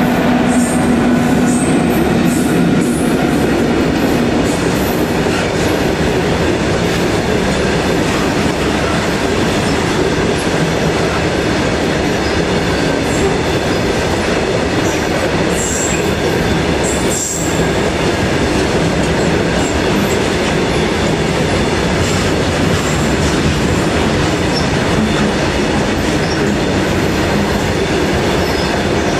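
A freight train of WAG7 twin electric locomotives and BCNA covered wagons rolling past close by: a loud, steady rumble of wheels on rail, with a few brief high squeals of wheels.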